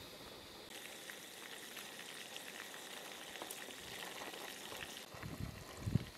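Food frying in hot oil in a frying pan, a steady fine crackling sizzle. Near the end, a few dull knocks and clatters as the pieces are turned and lifted with a slotted turner in the pan.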